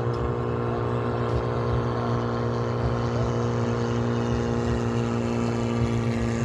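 Motorboat engine running steadily at constant speed, a continuous even drone.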